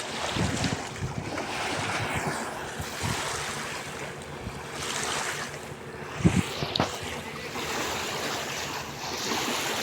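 Steady rushing of open water with wind buffeting the microphone, and a brief low thump about six seconds in.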